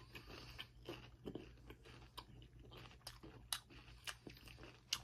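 A person chewing a crispy-crusted Bojangles fried chicken leg close to the microphone: faint, irregular crunches and small mouth clicks.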